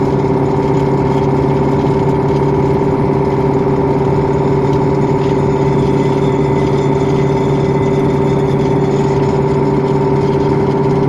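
KAMAZ dump truck's diesel engine running at a steady speed while driving, heard from inside the cab.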